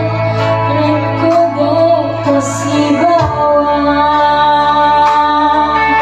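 Music with a woman singing over a steady bass line; she holds one long note through the second half.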